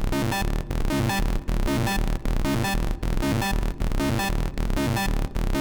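Hard techno loop playing back: a Serum 2 saw-wave pluck sequence repeating over a distorted kick with a deep rumble.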